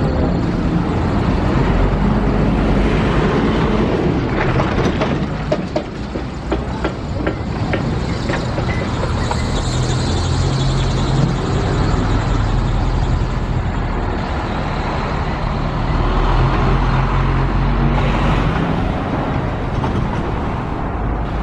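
A train passing: a diesel locomotive's engine runs steadily, with a run of sharp wheel clicks and clatter from about four to eight seconds in.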